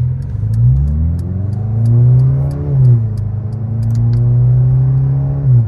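Mercedes-AMG C63 V8 engine revving: it climbs, drops back just before the middle, climbs again and holds high, then falls away near the end.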